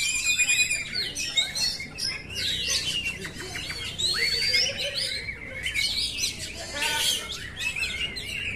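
Oriental magpie-robin (kacer) singing a varied, fast song of whistled phrases, sweeps and trills.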